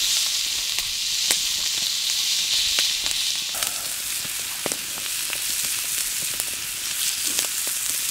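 Vegetables frying in a pan over a campfire: a steady sizzle with scattered sharp pops and crackles.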